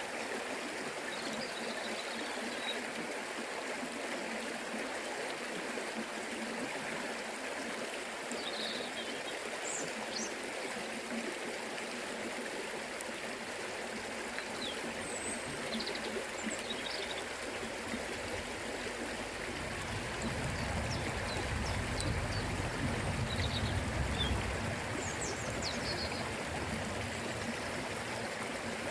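Forest river flowing: a steady rushing, babbling wash of water, with a few faint, short high chirps now and then. A low rumble swells for a few seconds about two-thirds of the way through.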